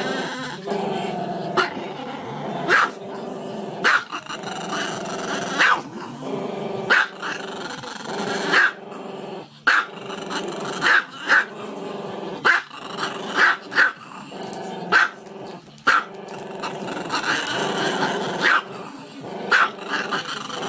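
A small dog growling and barking without pause: a continuous growly vocalising, broken by sharp barks about once a second.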